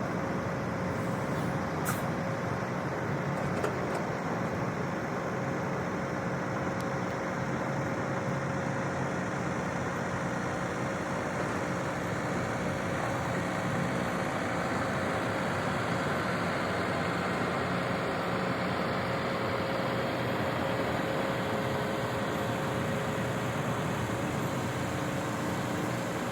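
Steady motor-vehicle running noise, an even rush with a faint constant hum underneath and no change in pitch.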